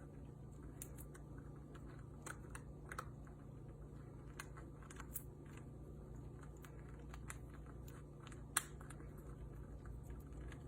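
A parrot's beak cracking and nibbling at a nut: irregular sharp clicks, one louder crack about three-quarters of the way through, over a low steady hum.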